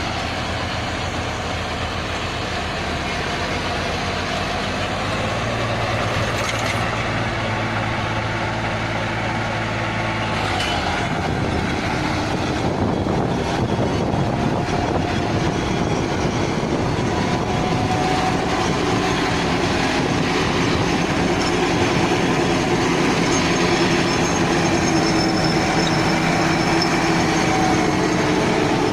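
Heavy machinery running: a steady engine drone with a rattling clatter. About ten seconds in, the low hum drops out and the rattling grows denser.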